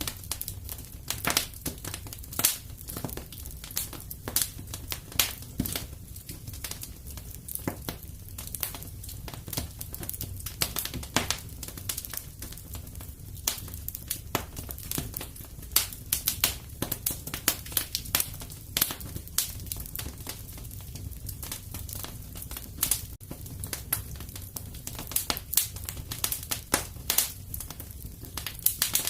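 Wood fire crackling in a fireplace: irregular sharp pops and snaps, some louder than others, over a low steady rumble of the flames.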